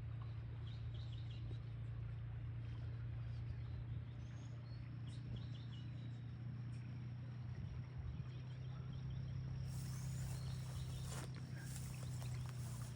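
Rain-swollen creek water rushing steadily through a fence line, with a few faint bird chirps over it.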